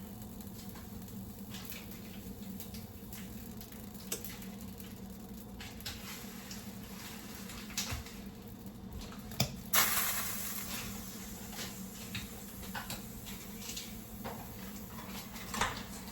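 Kitchen handling sounds: scattered clicks and knocks of utensils and dishes over a steady low hum, with one loud clatter about ten seconds in that trails off over about a second.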